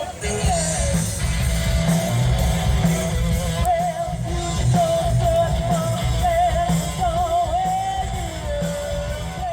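Rock music with a singer holding wavering, vibrato notes over heavy bass and drums.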